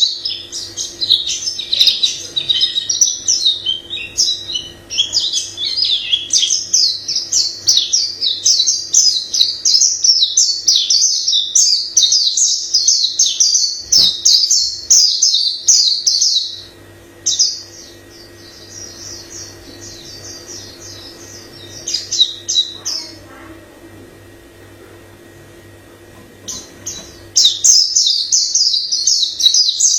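A white-eye singing a long, fast, varied warbling song of rapid high twittering notes. It breaks off about halfway through, gives one short phrase, pauses for several seconds, then starts singing again near the end.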